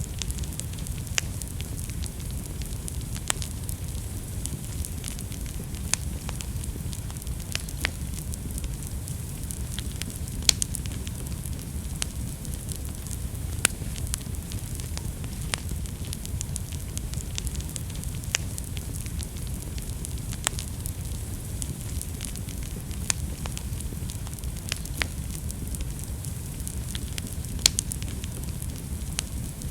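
Wood fire burning in a fireplace: a steady low rumble and hiss of flames with sharp, irregular crackles and pops from the burning logs.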